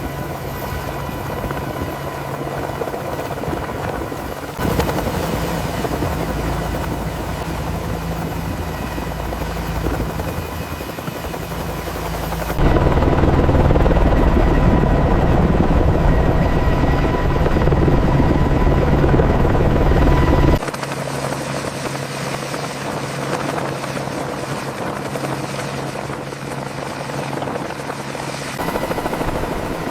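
Helicopter running, a steady dense rotor-and-engine din. It changes abruptly in character and loudness about every eight seconds, and is loudest and deepest in the middle stretch.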